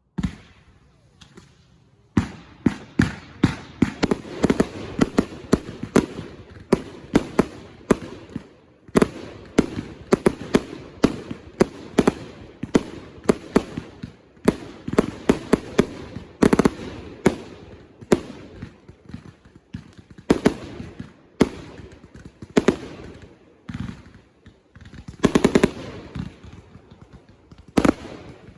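Consumer fireworks firing a rapid barrage of sharp bangs, several a second, with crackle between them. A single bang opens it, and the steady barrage starts about two seconds in.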